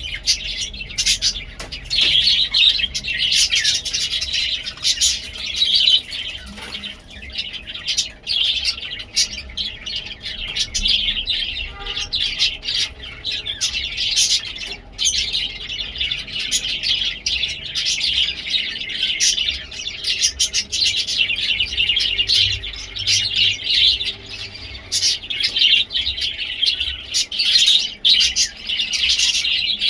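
Budgerigars chattering and chirping, a dense, unbroken stream of warbling calls and clicks.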